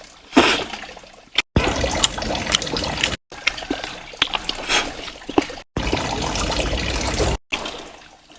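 Water trickling and splashing with scattered small clicks, in short stretches broken by abrupt silent cuts every second or two.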